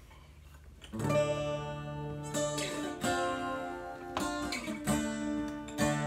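Acoustic guitar strumming an intro of chords that ring out, starting about a second in after a quiet moment.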